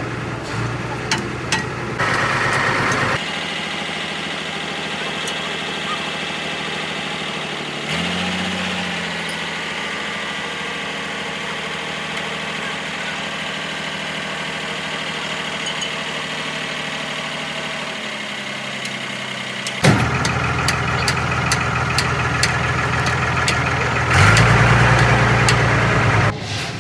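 Engine idling steadily, its pitch and loudness jumping abruptly a few times, about three, eight, eighteen, twenty and twenty-four seconds in, as different shots are cut together.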